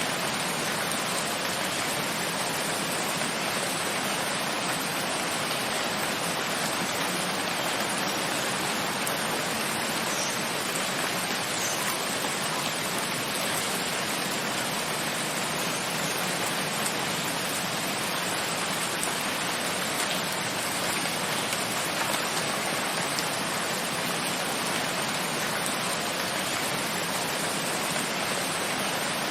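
Steady rain falling, an even hiss with faint scattered drop ticks and no letup.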